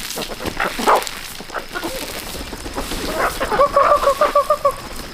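Chickens clucking, with a quick run of about eight clucks a second near the end, over scattered knocks and clatter.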